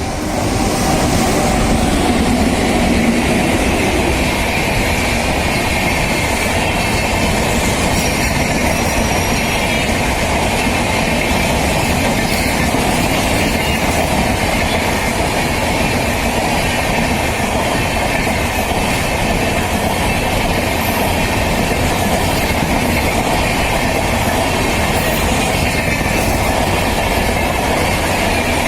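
Electric-hauled passenger train with LHB coaches running past close by: a loud, steady rush of wheels on rail with a rumble beneath, a steady high ringing and wheel clickety-clack. It swells up right at the start and then holds level.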